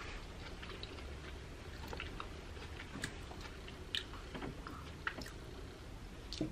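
Close-miked chewing of a bite of buffalo chicken wrap: faint, moist mouth sounds with small clicks scattered through.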